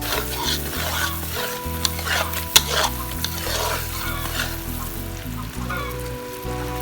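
Food frying in a pan and being stirred, irregular scraping and sizzling with one sharp utensil clink about two and a half seconds in, over steady background music.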